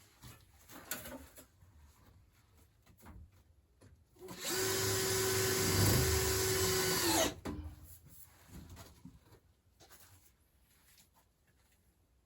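Power drill running for about three seconds at a steady speed, dipping briefly near the middle and then winding down, as when driving a screw. Faint handling clicks come before and after.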